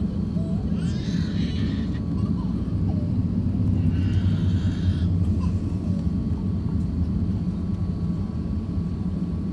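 Steady low rumble of an Airbus A350-1000 jet, with two brief high-pitched vocal sounds about a second in and about four seconds in.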